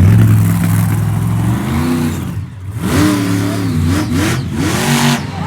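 Monster truck engine revving, its pitch climbing and falling several times, with a brief lull about two and a half seconds in.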